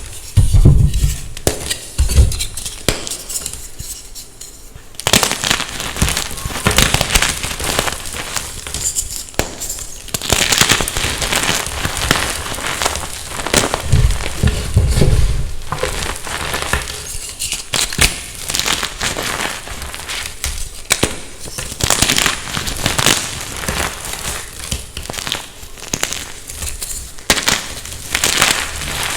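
Gym chalk being crushed, with dense, irregular crunching and crackling that eases off briefly a few seconds in and then picks up again.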